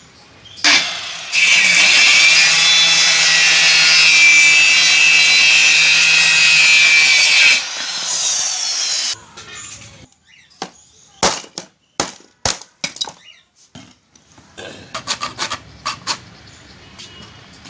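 Power saw cutting: a loud, steady run of about seven seconds with a high whine. It is followed by a few sharp knocks and then some scraping.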